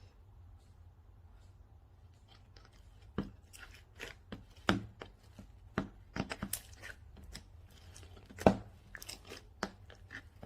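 Slime being pressed and pulled by hand, giving sharp sticky clicks and pops at an irregular pace. They start about three seconds in, and the loudest pop comes near the end.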